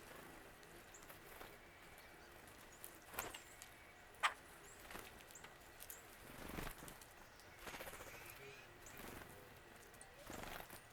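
Faint wild birds: scattered short, high chirps mixed with several sharp taps and soft rustles, the loudest tap about four seconds in.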